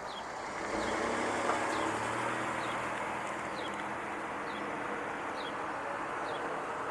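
A bird calling with a short, high, falling note repeated evenly about once a second, over a steady hum of traffic noise.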